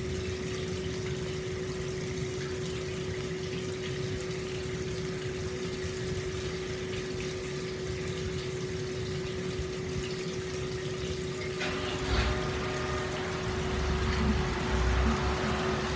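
Hot spring water pouring steadily into an open-air stone bath, an even splashing rush with a steady hum underneath. About twelve seconds in the sound grows louder and fuller, with a low rumble added.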